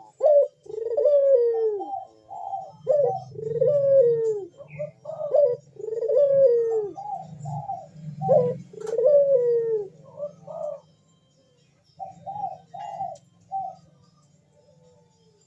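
Ringneck dove (burung puter) cooing in its breeding-condition song: a rapid run of repeated falling coos for about ten seconds, then a few shorter notes, then a pause near the end.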